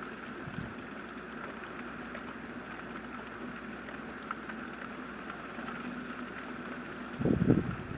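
Steady rain falling, with scattered faint drips. A short, loud, low thump comes about seven seconds in.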